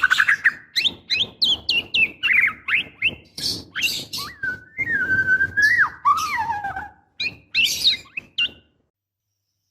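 Female white-rumped shama calling in breeding condition, the call used to draw a male: a quick run of chirps and sharp sweeping notes, with a held whistle about five seconds in that drops in pitch. The calling stops about eight and a half seconds in.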